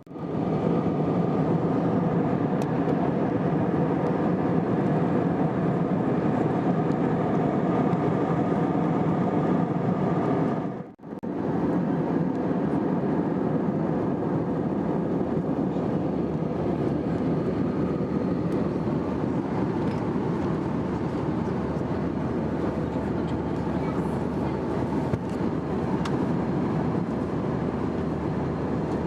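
Steady engine drone and rushing cabin noise inside an Airbus A321 with IAE engines, with faint steady engine tones. The sound drops out briefly about eleven seconds in and then carries on the same.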